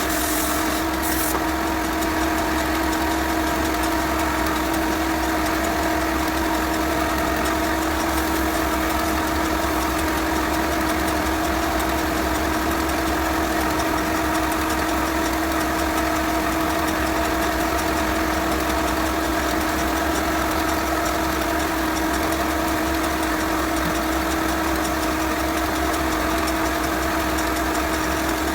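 Electric motor of a wood lathe running at a constant speed, a steady hum with one strong pitched tone and a low rumble.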